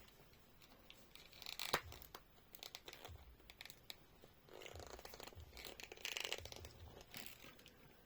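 Quiet clicks, scrapes and rubbing of a small plastic action figure being handled as a helmeted head is forced onto its very tight neck joint.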